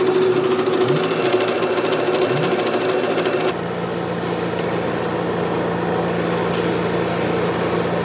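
Steady mechanical buzzing that cuts abruptly, about three and a half seconds in, to a different, lower steady hum.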